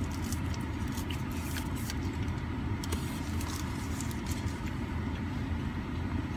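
Steady low rumble of an idling car, heard from inside the cabin. Light crinkles and clicks of paper and food packaging being handled come and go, mostly in the first half.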